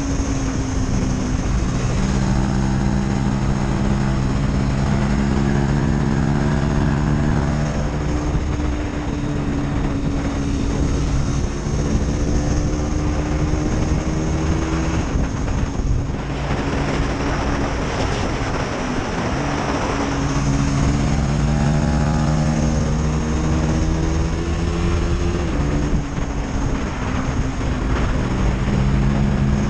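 KTM 250 Duke's single-cylinder four-stroke engine and exhaust running under load. Its pitch climbs and then steps down several times as the revs change, as through gear changes.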